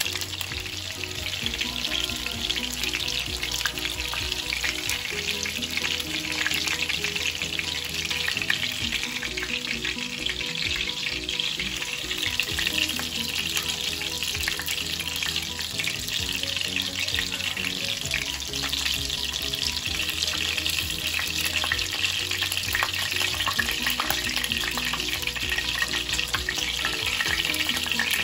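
Ground-beef burger patties frying in shallow oil in a nonstick pan: a steady crackling sizzle.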